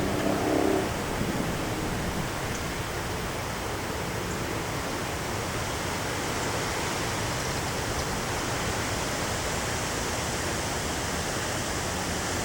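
Heavy rain and wind during a thunderstorm, a steady, even hiss. A low pitched hum fades out about a second in.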